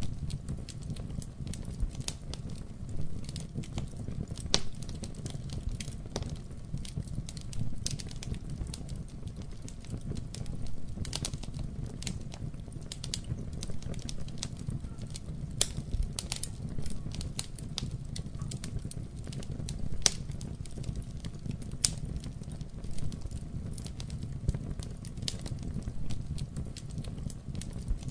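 Wood fire burning in a fireplace, crackling with irregular sharp pops over a steady low rumble of flame.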